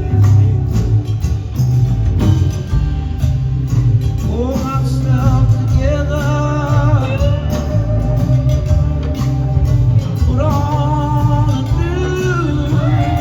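Live rock band playing a loud extended blues-rock jam over a steady heavy bass and drums. From about four seconds in, a lead line of sliding, held high notes rides on top.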